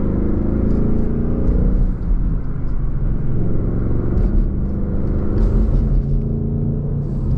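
2021 Ford Mustang Mach 1's 5.0-litre V8 with its exhaust in track mode, heard from the cabin while driving. The engine pitch climbs, drops off briefly about two seconds in, then climbs again.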